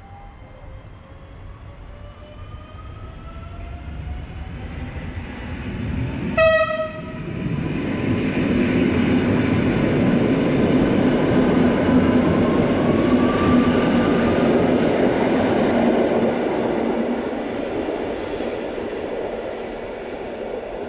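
An EN57-series electric multiple unit running into the station along the platform. It grows louder as it approaches, gives one short horn blast about six seconds in, then passes close by with a loud rumble and a steady hum that fades near the end.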